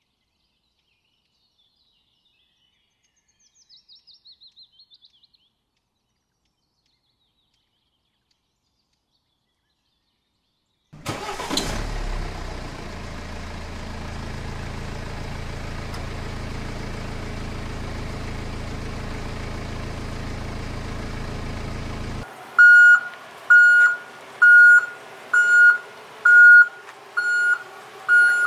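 Tractor sound effects: an engine start about eleven seconds in, then a steady engine running, which stops about twenty-two seconds in and gives way to loud reversing beeps, about one and a half a second. Before that, near silence with one faint short chirp.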